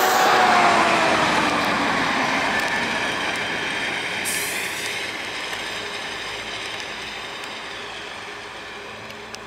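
Passenger train of coaches rolling away along the track, its running sound fading steadily, with a falling whine in the first couple of seconds.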